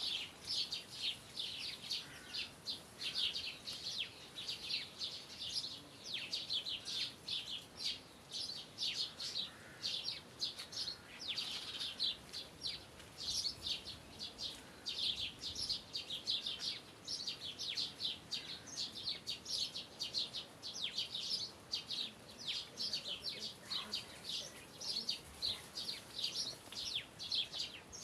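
Songbirds chirping: a dense, continuous chorus of short high chirps, several a second.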